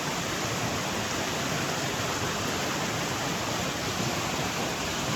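Swollen river rushing, a steady full roar of fast, heavy floodwater running after a hurricane.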